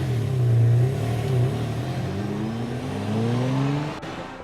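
Vehicle engine sound effect revving, its pitch dipping and rising several times over a hiss, then cutting off near the end.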